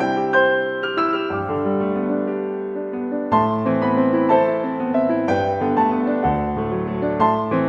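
Slow, calm piano music: sustained chords under a melody of single notes, played without a beat.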